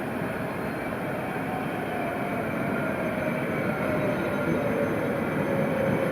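Tram running on street track, its motor whine falling slowly in pitch over a steady rumble that grows gradually louder.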